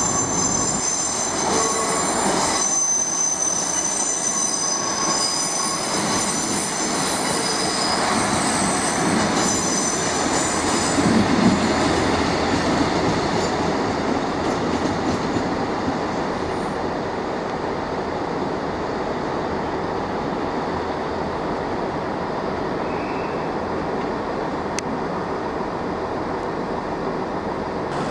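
Class 155 Super Sprinter diesel multiple unit running over curved track and pointwork. Its wheels squeal in several high steady tones for about the first ten seconds, then the squeal fades into the steady running noise of the train.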